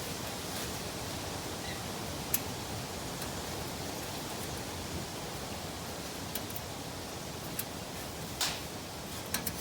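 Steady, even hiss of background noise, with a few short light clicks and taps, one about two seconds in and several near the end, and a brief rustle shortly before them.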